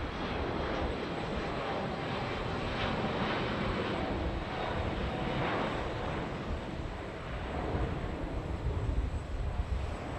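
Jet airliner engines, a steady broad rush of noise with an uneven low rumble.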